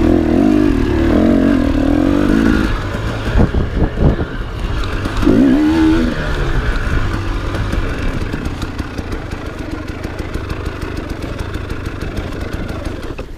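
Enduro motorcycle engine revving with a rising and falling pitch for the first few seconds and again briefly around five seconds in, with a few sharp knocks in between. It then settles to a quieter, steadier running.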